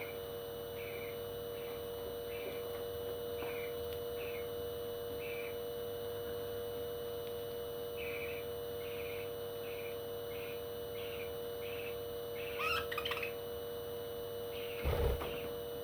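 A parrot giving short, high chirps over and over, about one or two a second, over a steady hum; a louder call breaks in about two-thirds through, and a thump comes near the end.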